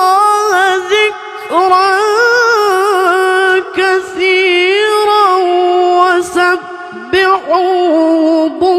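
A single voice chanting Quranic recitation in a melodic tajweed style, holding long ornamented notes that waver and glide in pitch, with short breaks for breath about a second in, near four seconds and between six and seven seconds.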